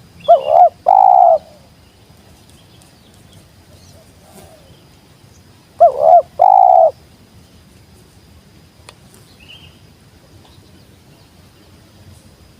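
Spotted dove cooing: two calls about five seconds apart, each two short rising-and-falling notes followed by a longer held note. A fainter coo comes between them.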